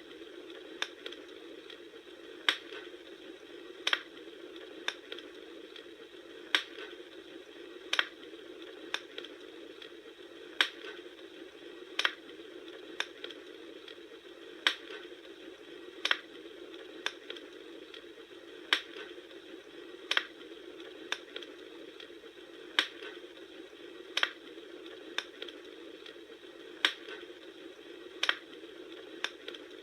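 Wood fire crackling: sharp pops about once a second over a steady hiss of burning.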